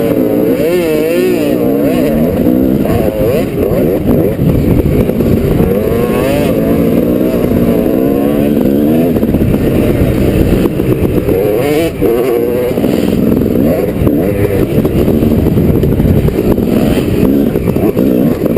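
250cc motocross bike engine revving hard and dropping back over and over as the rider works the throttle and gears around the track.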